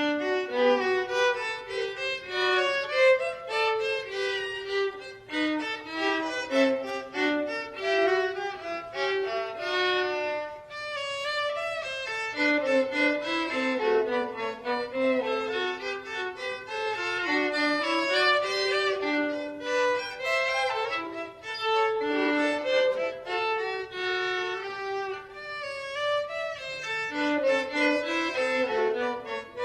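Violin playing a fast passage of many quick notes.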